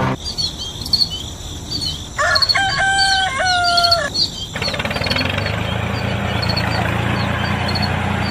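Small birds chirping over and over, with a rooster crowing once for about two seconds, a couple of seconds in. A steady low hum comes in about halfway.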